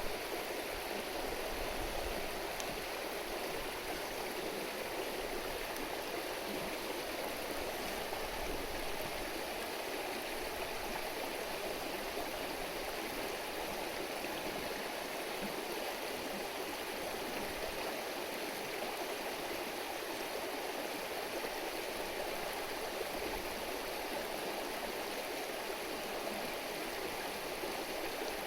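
A shallow river murmuring steadily over stones, an even rushing babble with no change.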